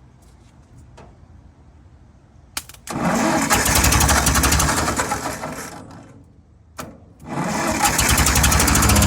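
Ford 600 tractor engine being turned over by its starter in two bursts, each begun by a click; the first dies away after about three seconds, the second runs on. The engine cranks but does not catch and run.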